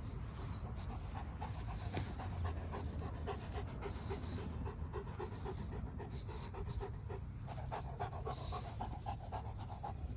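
A dog panting in quick, evenly spaced breaths.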